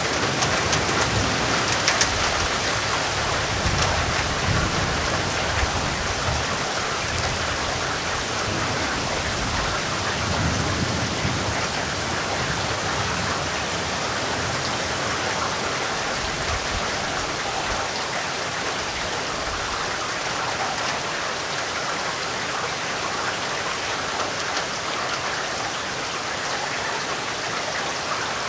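Steady rain pouring down in an even hiss, with low rolls of thunder rumbling in the first half that die away.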